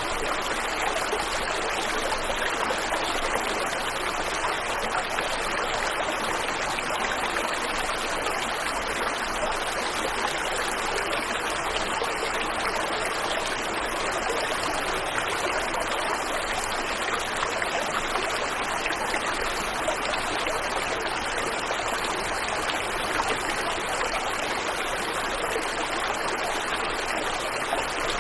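Steady rushing of a waterfall and stream, running water with an even, constant hiss and no breaks.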